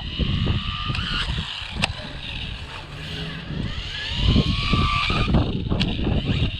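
Rlaarlo AMX12 RC buggy's electric motor, running on a 3S battery, whining up in pitch twice as it accelerates, over the rough noise of the tyres scrabbling on the ground, with two sharp clicks.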